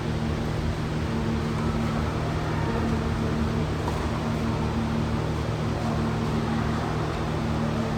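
A steady low mechanical hum with a constant drone and no breaks or changes.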